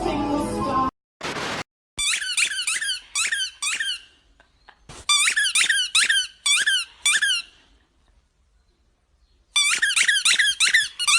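Quick high-pitched squeaks, each falling in pitch, come in three bursts of several squeaks a second, with short silences between. Music plays for about the first second, followed by a brief burst of noise.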